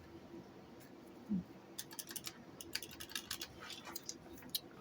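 Handling of an old answering machine and its parts: a scatter of light, irregular clicks and taps, busiest in the middle, with one brief low sound about a second in.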